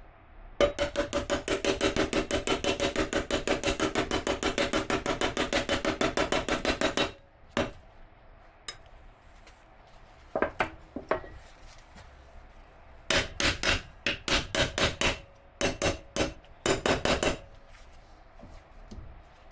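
A hand tool worked rapidly against a metal part, in quick even strokes of about eight a second for some six seconds with a ringing metallic tone. Later come a few single clicks and two shorter runs of the same strokes.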